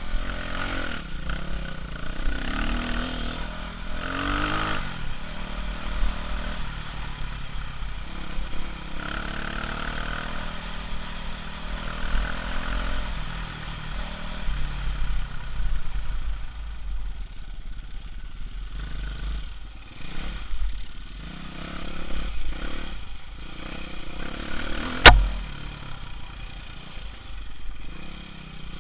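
Off-road vehicle engine revving up and down and running at low speed, over a steady low rumble and clatter from rough ground. A single sharp knock stands out a few seconds before the end.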